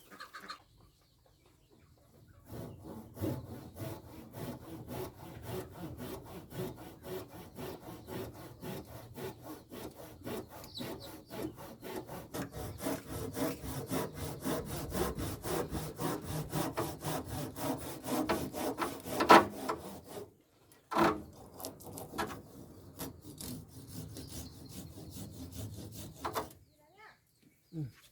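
Wood being sawn by hand, with a long run of quick, even strokes. The sawing stops, there is a sharp knock, and then a shorter stretch of sawing follows.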